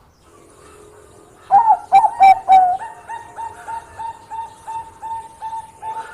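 Zebra dove (Bangkok perkutut) singing: about a second and a half in, four loud coos, then a quick run of short, even coos at about three a second.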